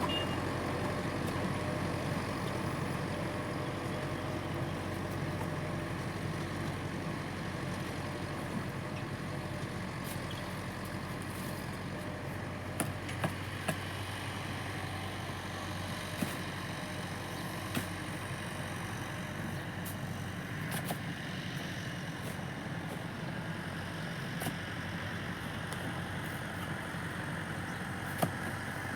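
A tractor engine idling steadily, with a few sharp clicks in the second half.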